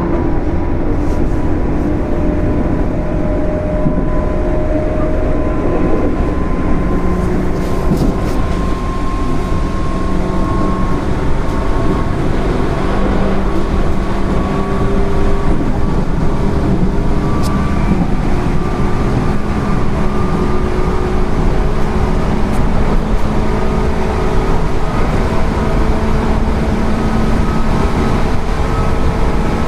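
JR 205 series 0-bandai electric train with field-added excitation control running: a steady rumble of wheels and running gear, with the traction motors' whine rising slowly in pitch as the train gathers speed.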